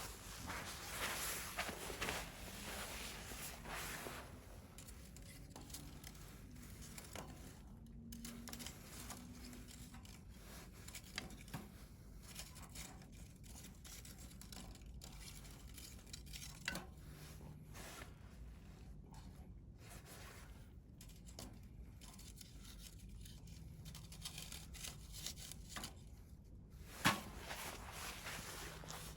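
Wood campfire burning: a steady crackle and hiss with scattered sharp pops. The crackle is busier for the first few seconds, and one pop near the end stands out as the loudest.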